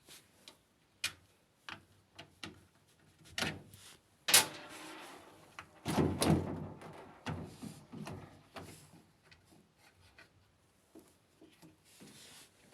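Irregular knocks, clicks and clatters of hard parts being handled, with a sharp loud knock a little after four seconds in and a longer, heavier clatter about six seconds in.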